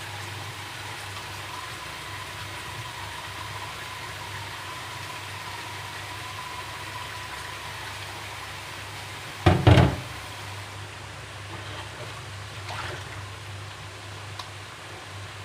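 Kitchen cooking sounds: a steady hiss over a low hum, broken about nine and a half seconds in by a short clatter of two or three loud knocks of cookware, then a few faint clicks.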